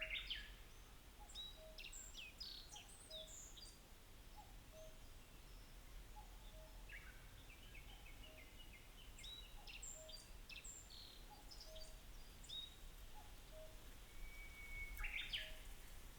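Wild songbirds chirping and singing in short bursts of high notes, faint, with a short lower note repeating about once a second throughout.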